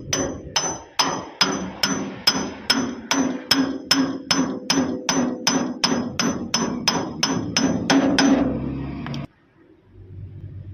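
A hammer striking a metal part, about twenty blows at a steady pace of roughly two and a half a second, each with a bright metallic ring; the hammering stops a little past eight seconds in, and a low hum carries on for about a second before cutting off.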